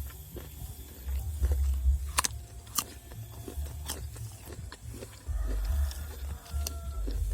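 A person eating close to the microphone: repeated chewing and crunching, with scattered short clicks.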